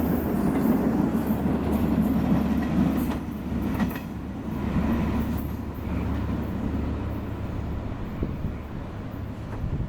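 Passenger train rolling past on the rails, a low rumble with a few wheel clicks, easing off about three seconds in and continuing more quietly.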